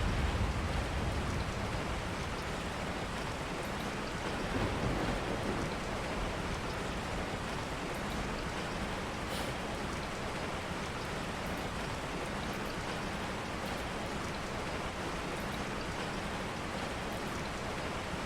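Steady rain, with a low rumble of thunder dying away in the first second.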